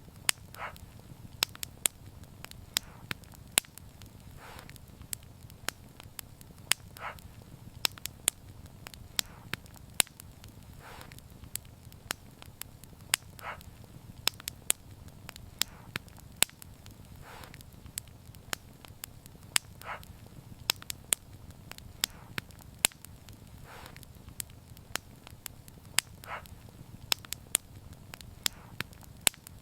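Wood fire crackling: frequent sharp pops and snaps at irregular intervals over a steady low rumble, with a soft hiss that comes back about every two seconds.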